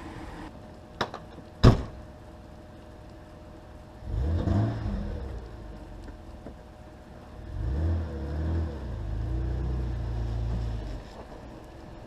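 1986 Nissan 300ZX's V6 engine running, just after a cold start. Two sharp knocks come about one and one and a half seconds in. The engine rumble rises about four seconds in, then swells again and holds for several seconds as it is revved or pulled away.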